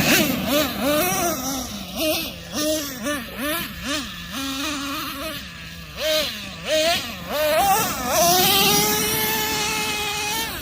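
Traxxas Nitro Revo 3.3's two-stroke nitro engine revving in quick throttle blips, its pitch rising and falling several times. Near the end it holds a steady high rev for a couple of seconds.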